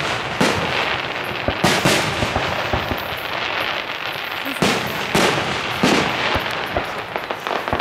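Aerial fireworks shells bursting: repeated bangs at irregular intervals, a few close together, over a continuous crackling hiss.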